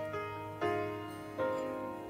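Worship-band piano playing slow chords: a new chord is struck twice and each one rings and fades before the next.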